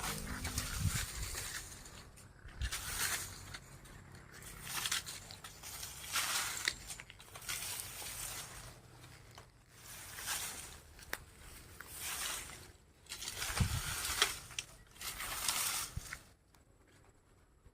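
A goat-shed floor being cleaned: about nine swishing scrapes of a broom or scraper, one every one and a half to two seconds, with a single dull thump late on. The strokes stop shortly before the end.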